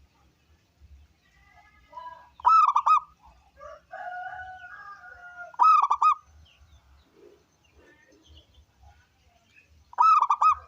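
Zebra dove (perkutut) singing: three loud bursts of rapid rolling coos, each under a second long and three to four seconds apart, with softer cooing notes between the first two.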